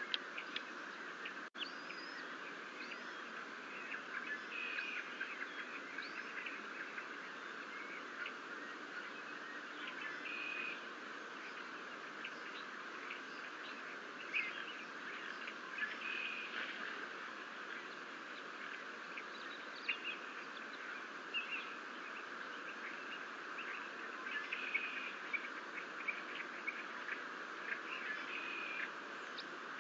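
Scattered short bird chirps over a steady outdoor hiss.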